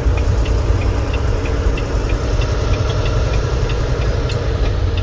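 Semi truck's engine and road noise running steadily, heard inside the cab, with a light regular ticking about three times a second.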